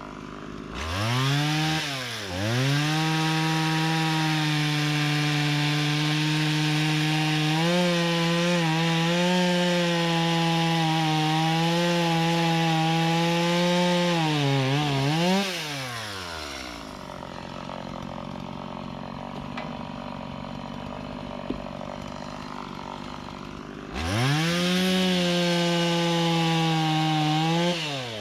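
Gas chainsaw revved to full throttle and held there for about thirteen seconds, its pitch wavering as it works through wood. It drops back to idle, then is revved again in a shorter burst near the end.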